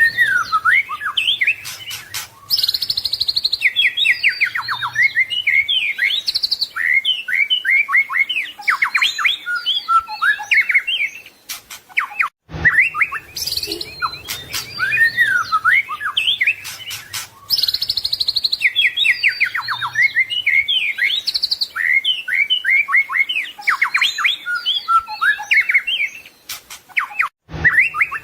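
White-rumped shama (murai batu) singing a rich, varied song of clear whistles, trills and rapid chattering phrases. The same stretch of about fifteen seconds plays twice, with a brief break about halfway through.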